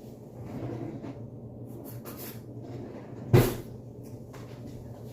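A kitchen cabinet shutting with one sharp bang about three and a half seconds in, amid faint rummaging sounds while fetching a fork, over a low steady hum.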